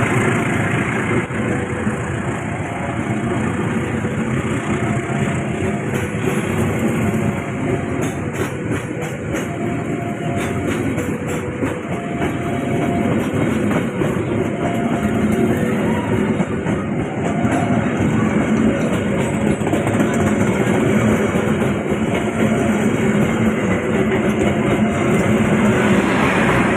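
Train passing close by at a level crossing: a loud, steady rumble of wheels on rails, with a run of sharp clicks from the wheels over rail joints partway through.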